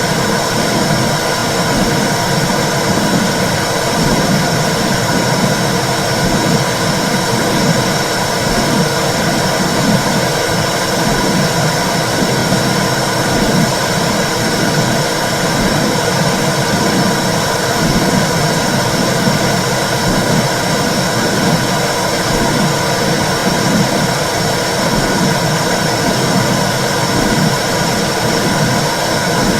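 Womb sound for soothing babies: a loud, steady whooshing noise with a low rumble that pulses continually underneath.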